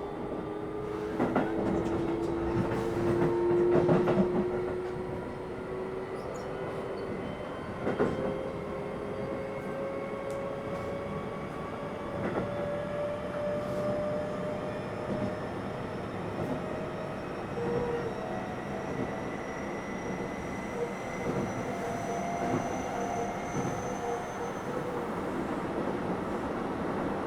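Keio 7000 series electric train running, heard from inside: a set of whining motor tones rising slowly in pitch as the train picks up speed, with a few clacks from the wheels over rail joints and a brief louder stretch about four seconds in.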